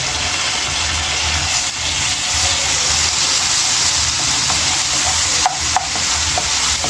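Crushed garlic sizzling steadily in melted butter in a pan as it is stirred, with a few light clicks of the utensil against the pan about five and a half seconds in.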